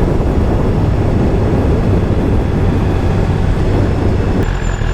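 BMW S1000RR's inline-four engine running at a steady road speed, with wind noise from riding over the microphone. A little past four seconds the rushing noise thins out, as when the bike eases off.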